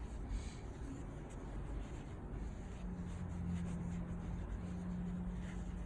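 Soft, scratchy rubbing of roll cast padding being unrolled and wrapped around a dog's leg. A faint steady low hum sets in about halfway through.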